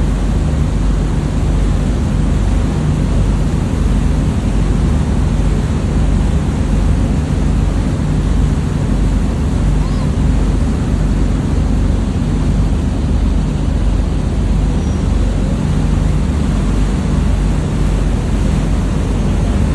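Steady wind rushing over the microphone on a passenger ship's deck, over the constant low drone of the ship's engines and the rush of the sea along the hull.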